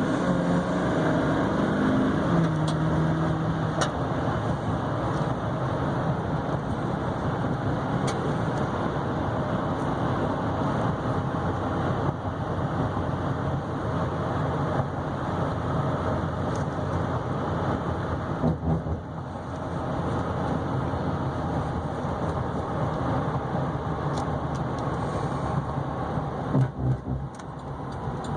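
2012 Chevy Silverado 3500HD's 6.6-litre Duramax V8 turbodiesel under hard acceleration, its pitch dropping after a couple of seconds. It then settles into a steady run with road noise while the truck is driven.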